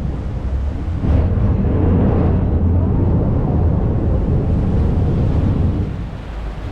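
Low, steady rumble of a boat engine, with a brief hiss about a second in.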